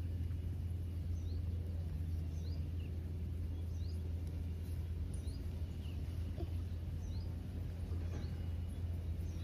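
Small birds chirping in short falling notes, about one a second, over a steady low rumble.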